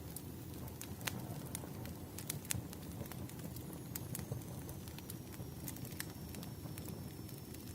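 Firewood burning with a steady low rumble and frequent sharp, irregular crackles and pops. A faint thin high tone comes in about halfway and holds.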